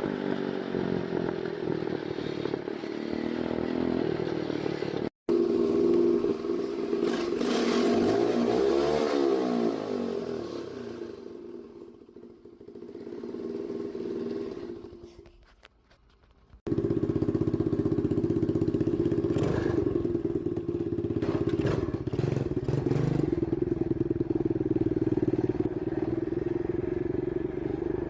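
Dirt bike engines running, with the pitch sweeping up and down as a bike passes about eight to ten seconds in, then fading away. After a brief near-silent gap the engine sound comes back abruptly and runs steadily.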